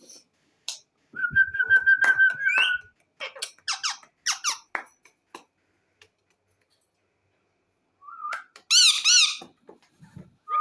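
Parrots whistling, squeaking and clicking: a drawn-out whistle about a second in, a run of quick falling squeaks around four seconds, then after a pause a loud wavering squawk near the end.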